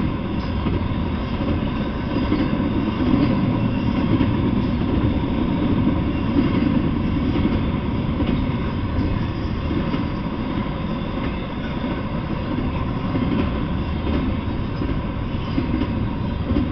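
Double-stack intermodal freight train rolling past: the steady, even noise of its well cars' wheels running on the rails.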